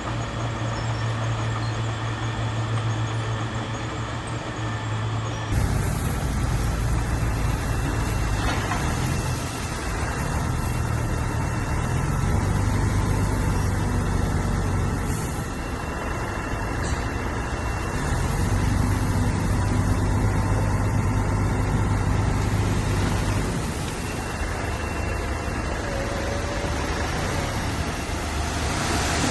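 Heavy diesel engine of a working bulldozer running with a steady drone, its load swelling and easing every few seconds; the sound changes abruptly about five seconds in.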